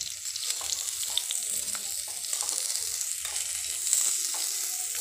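Raw potato sticks and peanuts frying in ghee in a metal kadhai, sizzling steadily while a metal spatula stirs them, with occasional light scrapes and clicks against the pan.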